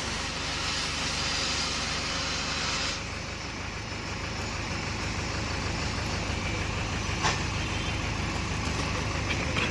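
Tractor diesel engine running steadily, with a single sharp click about seven seconds in.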